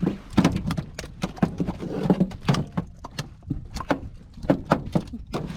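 A rapid, irregular series of knocks and thumps, several a second.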